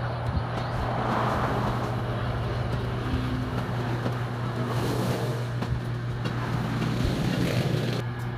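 A steady low mechanical hum, with scattered light knocks and rustling from hands-on work.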